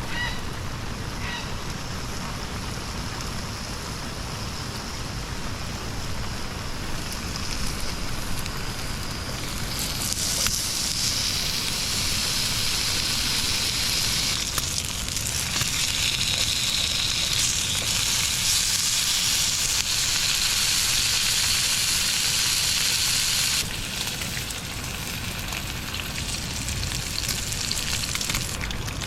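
A steady hissing, sizzling noise that grows louder and brighter for about fourteen seconds in the middle, then drops back suddenly.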